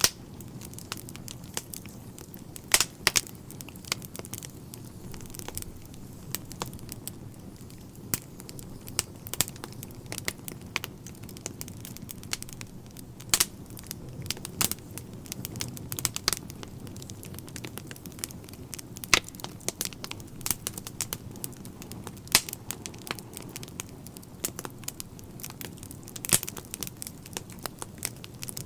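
Wood fire burning in a fireplace: a steady low rumble of flames with irregular crackling of the logs and a few louder pops.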